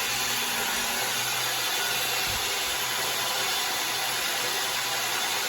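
Steady machine noise, an even whooshing hiss with a low hum underneath, unchanging throughout.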